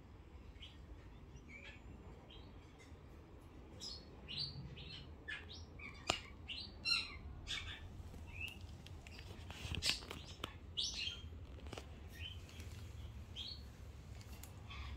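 A bird giving many short, faint chirps and squeaks at irregular intervals, with a few brief clicks in between.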